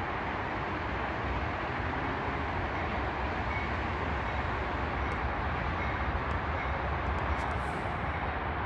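Diesel freight locomotive approaching on the rails, a steady low rumble of engine and train.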